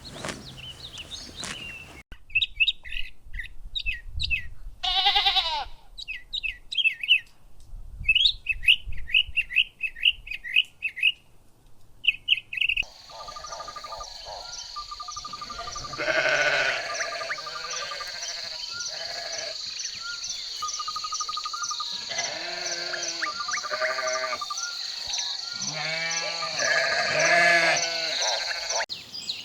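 Sheep bleating several times, mostly in the second half, among birds chirping and trilling. From about a third of the way in, a steady high-pitched buzz with a fast regular pulse runs underneath.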